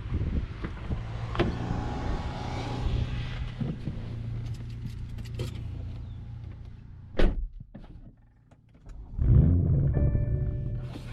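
BMW M240i's B58 turbocharged straight-six starting with a loud rev flare rising in pitch about nine seconds in, after a single sharp thunk and a brief near-silence. Clicks and handling noises come first, and steady tones of a chime or music begin near the end.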